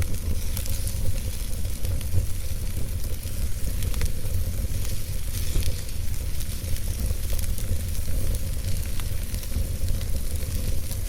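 Wood logs burning in a fireplace: a steady hissing fire over a low rumble, with small sharp crackles and pops scattered irregularly throughout.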